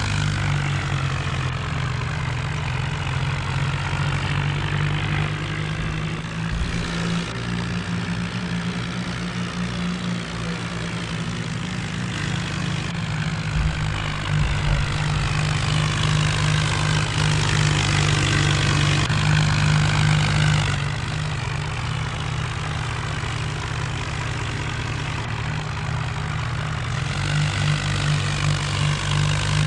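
Diesel tractor engine running steadily, with a deep hum and a noisy rasp over it, growing louder for several seconds a little past the middle.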